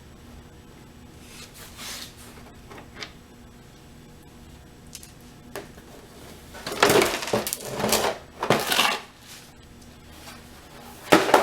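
Plastic fairing pan and its screws being handled on a motorcycle: scattered clicks, then bursts of clattering and knocking about seven to nine seconds in and again near the end.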